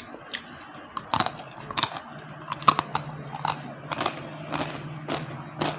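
Slate pencils being bitten and chewed: a run of sharp, dry crunches, irregular, about two or three a second.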